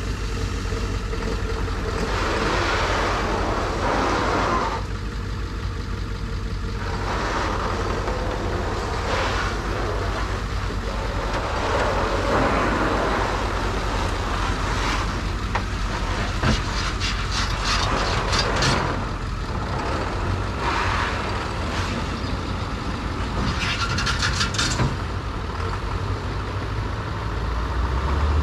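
Diesel engine of a Ford Super Duty tow truck running steadily, just after a hard cold start, with spells of hissing and a quick run of clicks about two-thirds of the way through.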